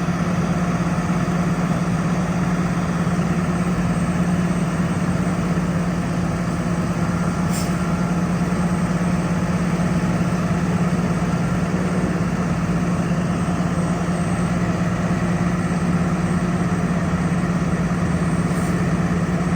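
A Cummins 6.7-litre turbo diesel in a Freightliner M2 truck running steadily at an unchanging speed, with a strong low drone.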